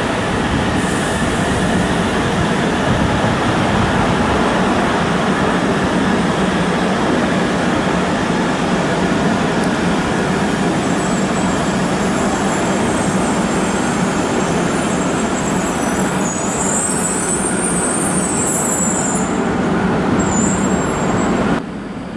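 Shinkansen train running on the track: a loud, steady rush of wheel and rail noise, with a high-pitched squeal joining in about halfway through. The sound cuts off suddenly near the end.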